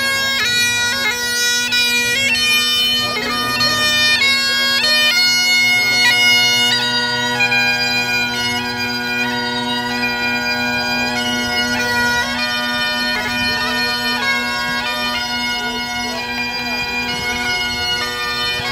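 Bagpipes playing a tune: a melody of stepping notes over a steady low drone.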